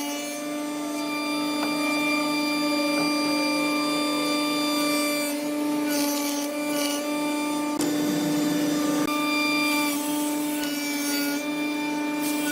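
A woodworking power tool running with a steady motor hum while it cuts or rubs against wood, giving rasping noise that is heaviest about eight seconds in.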